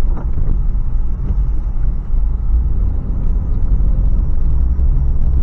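Toyota 4Runner with its 4.0-litre V6 driving along, a steady low rumble of engine and road noise heard inside the cabin.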